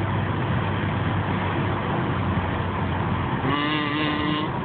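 Steady road and engine noise heard inside a Toyota Corolla cruising on the freeway. Near the end someone hums a held note for about a second.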